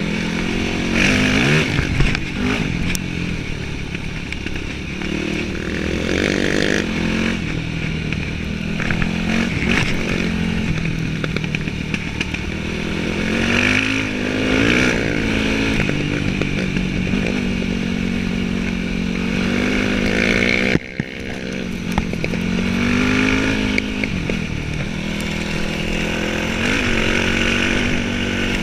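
Yamaha WR dirt bike engine running under a rider, revving up and easing off again and again as the throttle is worked along a trail. The engine sound drops sharply for a moment about three quarters of the way through, then picks up again.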